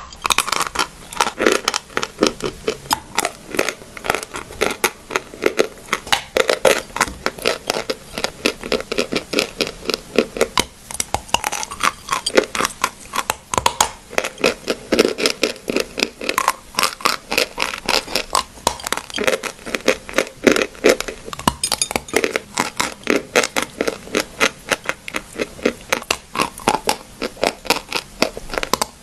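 Dry clay crunching: a continuous, rapid run of sharp, crisp crunches, several a second, without pause.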